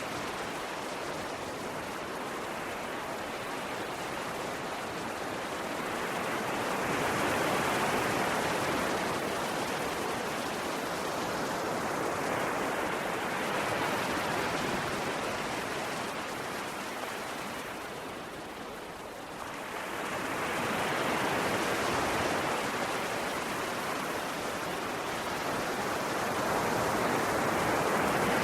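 Ocean waves breaking and washing on a shore in a continuous rush that slowly swells and ebbs, with a surge every several seconds.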